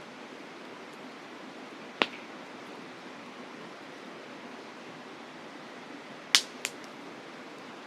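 Campfire wood popping sharply three times, once about two seconds in and twice in quick succession near the end, over the steady rush of a mountain river.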